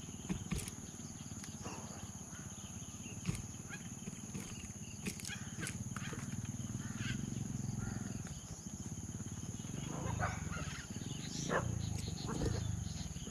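Spotted dove cooing: low, repeated coos that grow louder in the second half. A steady high-pitched insect drone runs underneath, and a few sharp clicks come in the first half.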